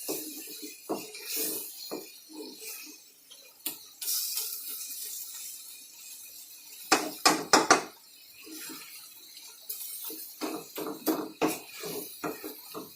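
Kitchen clatter of pots, dishes and utensils: scattered knocks and clinks, with four sharp loud strikes about halfway through and a quicker run of clattering near the end.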